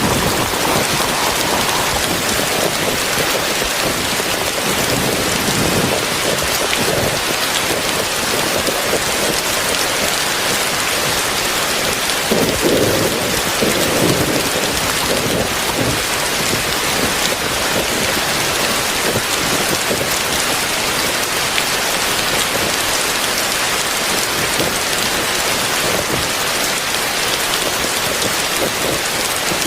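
Heavy rain falling steadily in a dense, even hiss, a little louder about twelve to fourteen seconds in.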